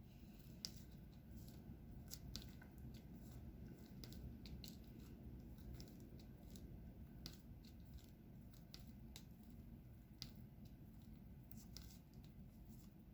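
Faint, irregular small clicks and taps of a diamond painting pen picking up resin drills and pressing them onto the sticky canvas, over a low room hum.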